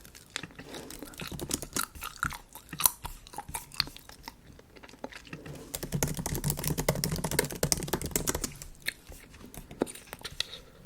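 Bubble gum being chewed close to the microphone, with wet mouth clicks and smacks, mixed with light clicking of MacBook keyboard keys. The sound is denser and fuller in the middle.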